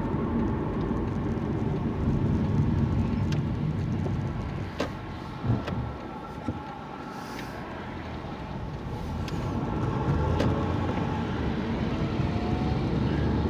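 Car driving, heard from inside the cabin: steady engine and road rumble that eases off and quietens about six seconds in, then builds again as the car picks up speed, with a few short clicks around five seconds in.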